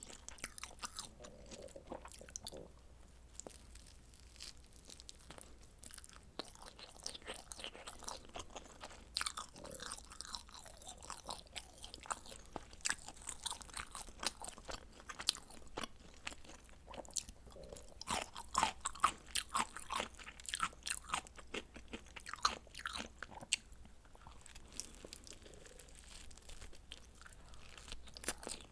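Chewing of frozen pizza, with a continuous uneven stream of small crunches and mouth clicks.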